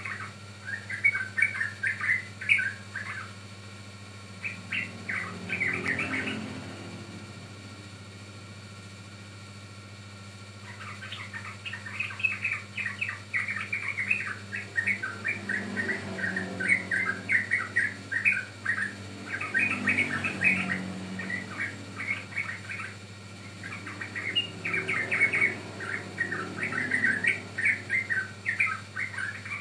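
Young yellow-vented bulbul (trucukan) singing a rapid, chattery string of short notes. A bout of song is followed by a pause of several seconds, then the chattering resumes and runs on almost without break. This is the kind of recording used as a lure to prompt other bulbuls to sing.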